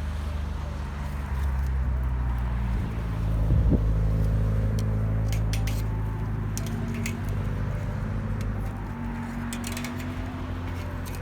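A vehicle engine running steadily with a low drone, its pitch and level shifting slightly, with scattered sharp clicks from about halfway through.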